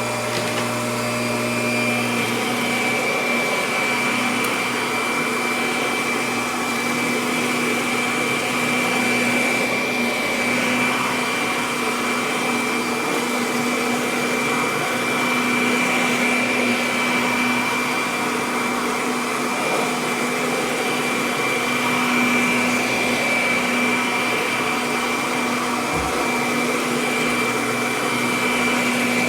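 Kirby Avalir upright vacuum cleaner running steadily while vacuuming, its motor and fan giving a steady high whine over the rush of air.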